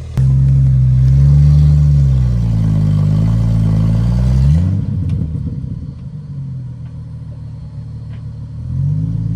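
Jeep Wrangler JK's engine revving under load as it crawls up a rock ledge. Its pitch rises and falls for about four and a half seconds, then drops to a quieter low rumble, and it revs up again near the end.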